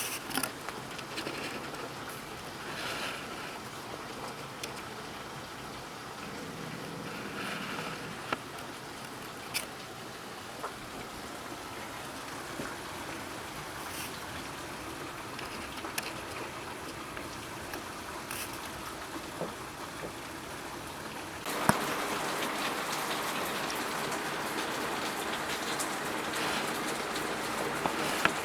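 Heavy rain falling steadily, with scattered sharp drips and taps. About three-quarters of the way through, it suddenly becomes louder and denser.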